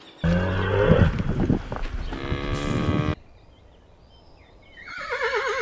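A cow mooing: one long, low call of about three seconds that starts and stops abruptly. Near the end a horse begins to whinny with a quavering call.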